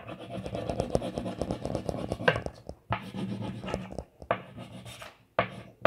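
Wax crayon scribbling on paper: quick back-and-forth scratchy strokes, broken by short pauses, turning into separate single strokes near the end.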